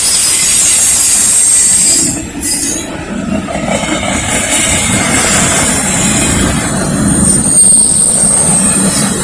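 Freight cars of a Norfolk Southern mixed freight rolling past at speed: a steady rumble of wheels on rail, with a high wheel squeal in the first two seconds that dies away and returns near the end.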